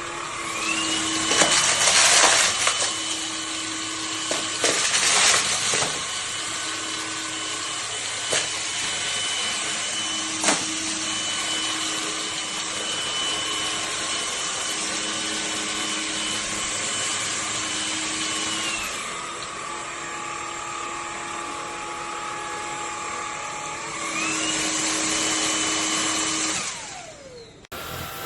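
Cordless stick vacuum's brushless motor running with a steady high whine over the rush of air. It drops to a lower speed partway through, speeds up again, then winds down with a falling whine when switched off near the end. There are two short, louder rushes of noise a few seconds in.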